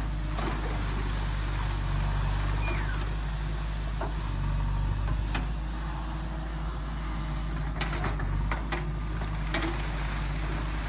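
JCB 3DX backhoe loader's diesel engine running steadily, with a few sharp knocks and clicks, several together about eight seconds in.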